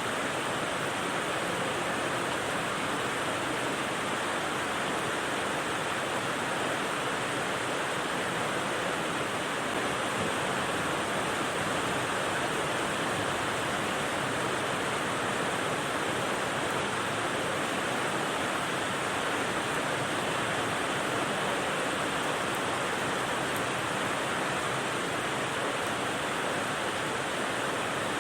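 Rain white noise: a steady, even hiss with no separate drops or changes.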